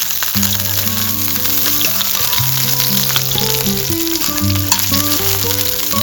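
Food sizzling and crackling as it fries in a pan, with background music of held notes playing over it.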